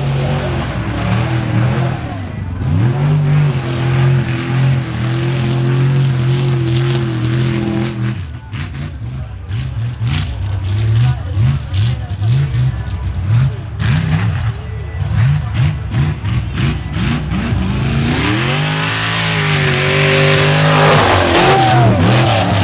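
Mud-racing truck engine running loud at steady high revs, then revved in quick repeated blips for about ten seconds, then climbing in pitch under hard acceleration near the end.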